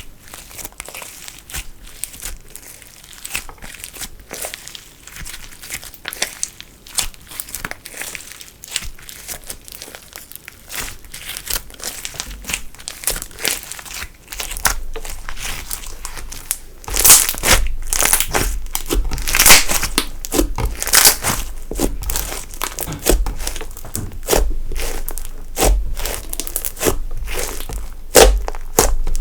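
Slime being kneaded, squeezed and stretched by hand, giving a steady run of irregular sticky clicks and crackling pops. It gets louder and wetter from about halfway through.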